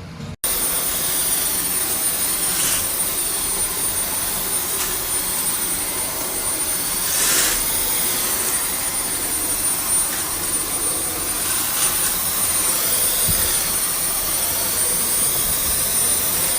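Dyson V12s cordless stick vacuum running steadily: a loud rush of air with a thin, high-pitched motor whine held on one note.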